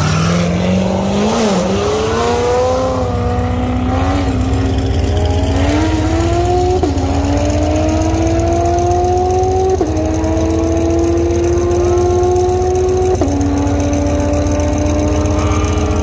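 Car engine accelerating hard through the gears. Its pitch climbs steadily and drops sharply at each upshift, about every three seconds, over a steady low drone.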